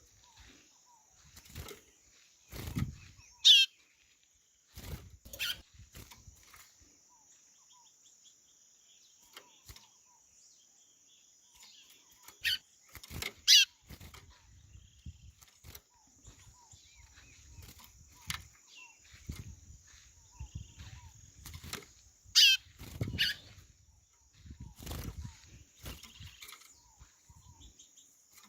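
White-bellied seedeater (chorão) giving short, sharp high calls spaced out in pairs: one about three seconds in, two around twelve to fourteen seconds, and two about twenty-two seconds in. A steady high insect buzz runs underneath, and a few dull low thumps fall between the calls.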